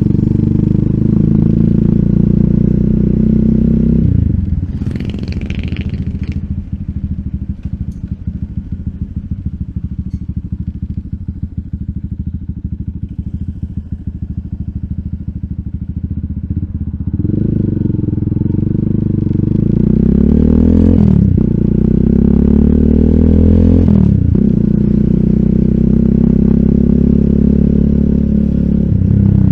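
RUSI Classic 250Fi motorcycle engine through an aftermarket bullet-pipe exhaust with a dB killer. It runs steadily, then about four seconds in drops to low revs with a choppy, uneven beat for a long stretch. Later it accelerates again, rising in pitch through two gear changes, each marked by a sudden drop in revs, and then holds a steady cruise.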